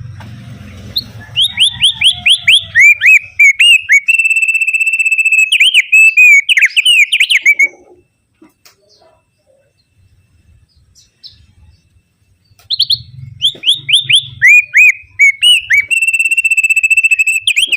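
Opior bird (Javan grey-throated white-eye) singing in two loud bouts, each a run of quick sweeping whistled notes flowing into a long, fast, steady trill, with a pause of about five seconds between them.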